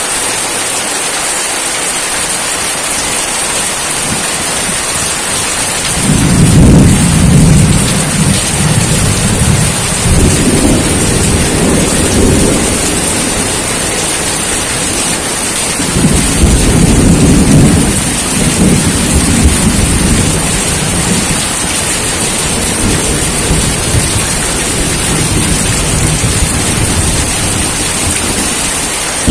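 Steady heavy rain hissing, with two long rolls of thunder: one rumbling in about six seconds in and another about sixteen seconds in.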